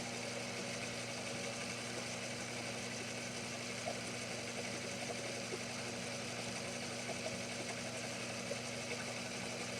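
Small milling machine running steadily through a cut, its table moved slowly by a low-voltage electric power feed at about 4 volts. A faint, even hum with a few steady tones and no change in speed.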